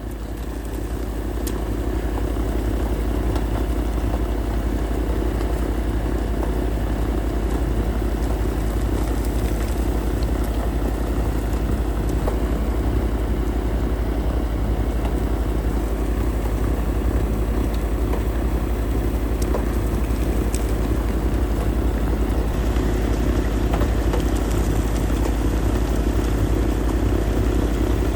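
Snowblower engine running steadily. It swells up over the first couple of seconds, then holds at an even level.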